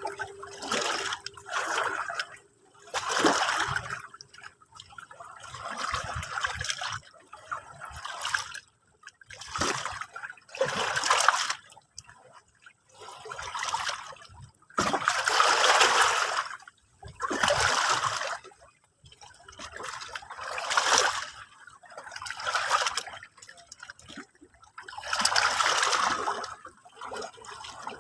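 Small sea waves washing in over and over, one wash every second or two, with brief near-quiet gaps between them.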